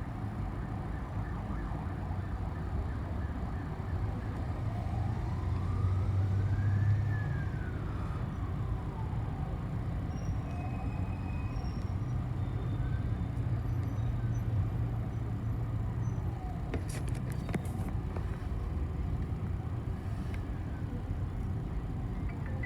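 City bus engine running steadily, heard from inside the cabin, with a whine that twice climbs and then falls back in pitch. A few sharp clicks about seventeen seconds in.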